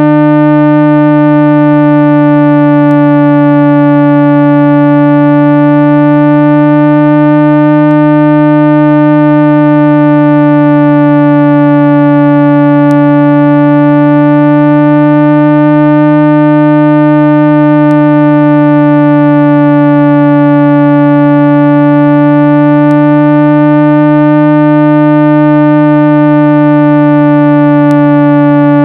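Loud synthesized speaker-cleaning tone, a continuous low hum with a stack of overtones, its pitch wavering slowly up and down every few seconds. It is played to shake water and dust out of a phone speaker.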